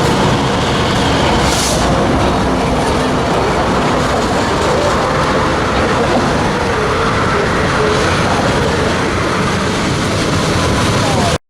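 A train rolling past close by: a loud, steady rumble of wheels on the rails, with faint wavering tones over it. It cuts off suddenly just before the end.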